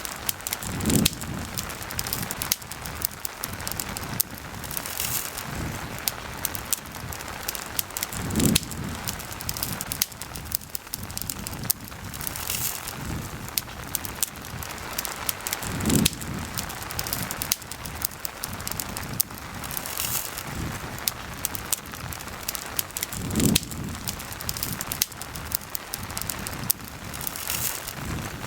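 Steady rain hiss with a campfire crackling and popping all through. A soft low swell comes back about every seven and a half seconds.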